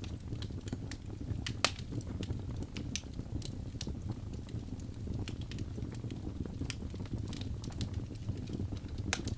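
Wood fire burning in a fireplace: a low steady rumble of flames with scattered crackles and pops from the burning logs, and one sharper pop about one and a half seconds in.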